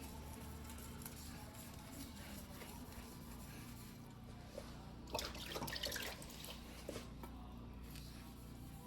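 Water dripping and splashing briefly, about five to six seconds in, with a single click a second later, over a low steady hum.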